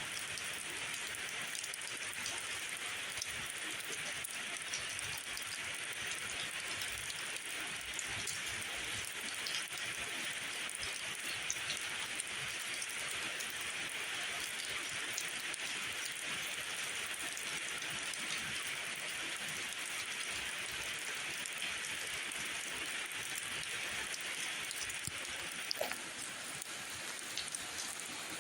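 Steady rain falling, a continuous hiss with scattered individual drops ticking.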